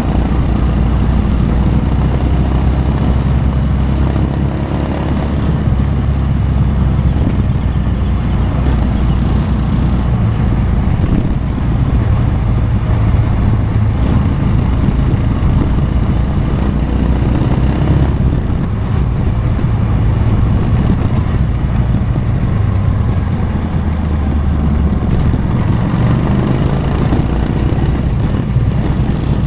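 Motorcycle engine running steadily while riding. Its low note shifts up and down a few times as the speed changes, over continuous road and wind noise.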